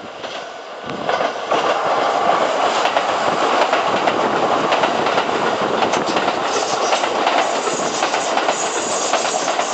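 A train running past at close range: steady rumble of wheels on rail with clickety-clack, growing louder about a second in and holding.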